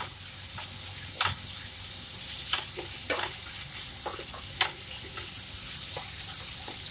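Chopped onion, tomato and green chillies sizzling steadily as they fry in hot mustard oil, with a spatula scraping and knocking against the pan at irregular moments as it stirs them.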